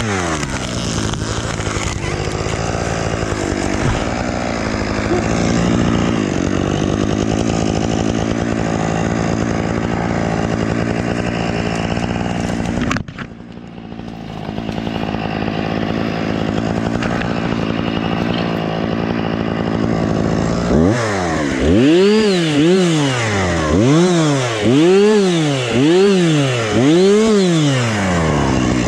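Husqvarna two-stroke chainsaw running at high revs, holding steady apart from a brief dip about halfway through. In the last several seconds the throttle is blipped, the engine revving up and falling back about once a second.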